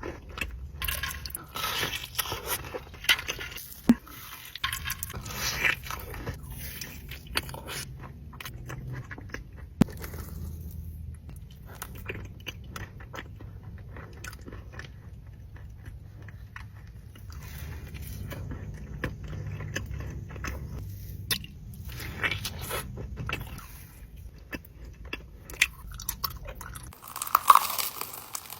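Close-miked biting and chewing of crunchy food, in irregular crunches and clicks over a steady low hum that cuts off near the end.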